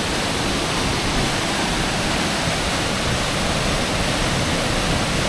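Roadside waterfall: water rushing in a steady, even noise.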